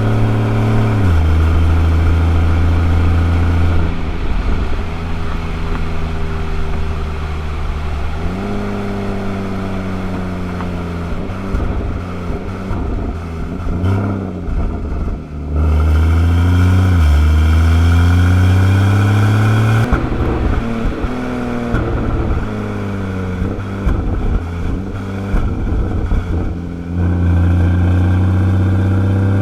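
Porsche 981 Boxster GTS flat-six heard through its factory sport flap exhaust while driving. The engine note holds steady, jumps abruptly between pitches and rises and falls several times as the revs change.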